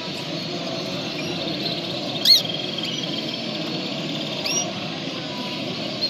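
Cage birds at a bird show chirping: a few sharp, rising high calls, the loudest about two seconds in, and a quick trill of repeated notes, over a steady background murmur.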